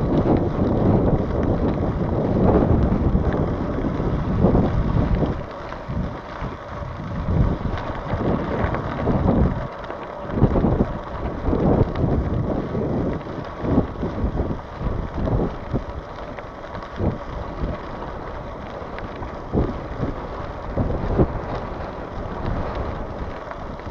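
Wind buffeting the microphone of a moving bicycle rider: a gusty low rumble that swells and drops every second or so.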